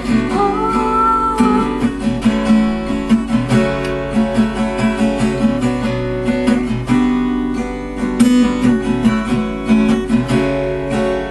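Acoustic guitar strummed and picked in an instrumental passage of a song, with a held melodic line gliding above it during the first couple of seconds.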